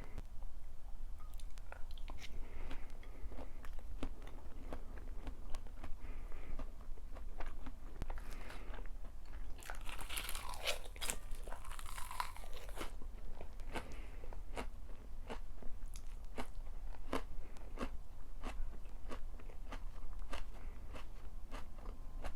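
A person chewing crunchy food close to the microphone: a run of sharp crunches and bites, with a denser, louder crunchy stretch about ten seconds in.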